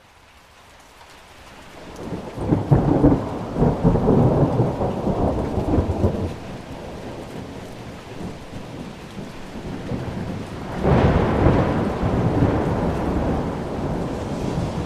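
Thunder rolling twice, a long rumble building up then another peal near the end, over steady rain.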